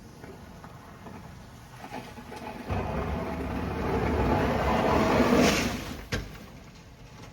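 Vehicle pushing snow: under a low background rumble, a loud rush of noise builds for about three seconds, then falls away, followed by a single sharp knock.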